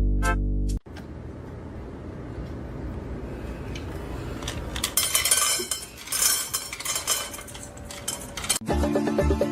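Dishes and cutlery clinking and rattling, busiest from about four to eight seconds in. A short synth music sting plays at the very start and another comes in near the end.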